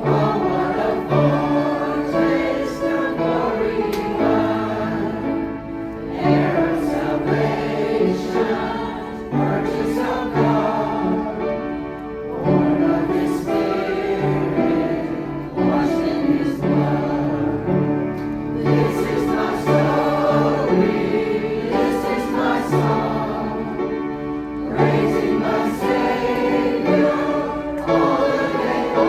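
A choir singing a song, the voices moving together in changing chords.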